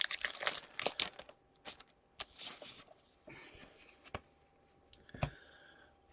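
Foil trading card pack wrapper crinkling and tearing open, most busily in the first second, then scattered crackles and small clicks of the wrapper and cards being handled.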